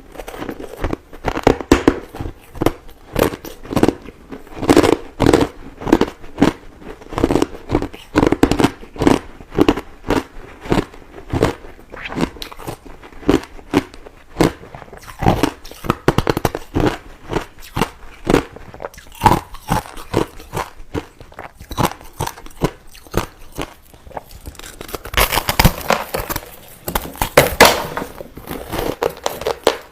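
White crushed ice being chewed: a steady run of crisp crunches, about two a second, with a denser flurry of crunching near the end.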